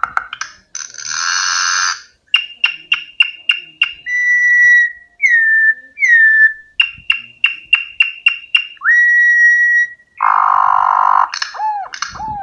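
Campo troupial (corrupião) singing. Quick runs of clicking notes alternate with clear whistled notes, some held steady and some dropping in pitch, and a harsh, raspy note comes early and again near the end.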